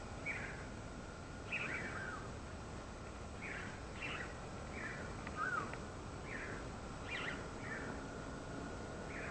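Wild birds calling in short chirps, about ten in nine seconds, some sliding down in pitch, over the steady noise of a soft breeze.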